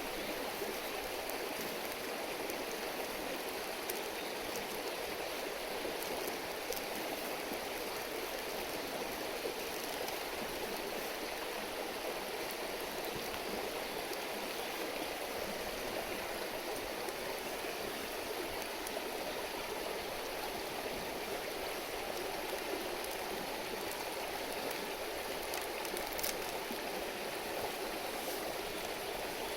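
A river stream babbling steadily, with a few faint sharp ticks.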